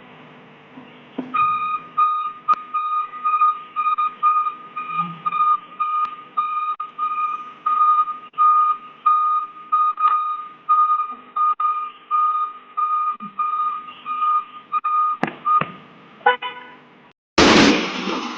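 A high electronic tone beeping about twice a second, then a loud burst of noise near the end.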